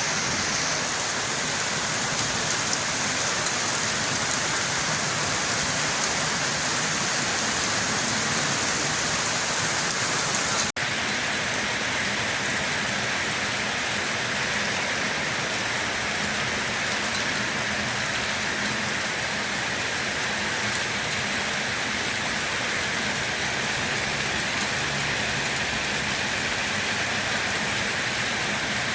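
Steady rain falling, an even dense hiss of drops. About a third of the way in it cuts out for an instant and carries on with a slightly duller tone.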